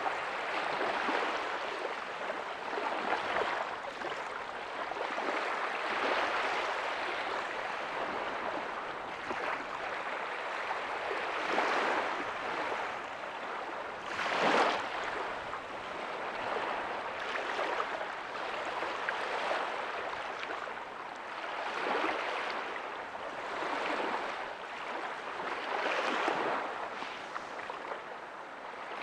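Small ocean waves breaking softly on a sandy beach: a steady wash of surf that swells and falls back every couple of seconds, with one louder wave breaking about halfway through.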